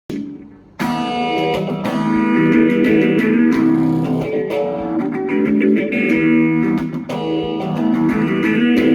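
Guitar music: plucked and strummed guitar notes ringing over a bass line. A single note sounds first, and the full playing comes in about a second later.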